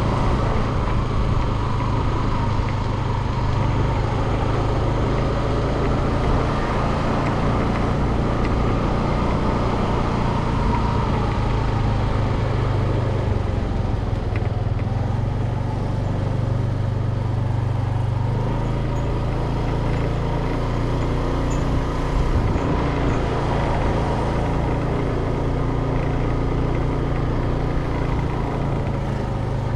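Motor vehicle running steadily: a continuous engine hum with road noise, its pitch shifting about halfway through.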